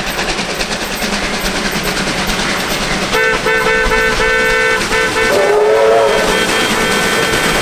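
A passing train's running noise. About three seconds in, a locomotive's warning signal cuts in: a chord of several steady notes, first broken into a string of short toots, then held. Near the middle of the signal a lower note slides in.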